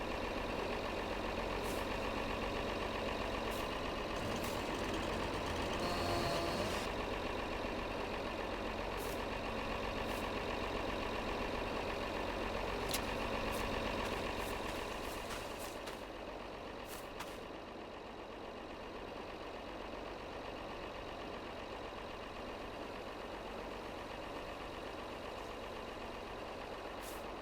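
Tractor engine running steadily, with scattered sharp clicks over it; the sound eases slightly about halfway through.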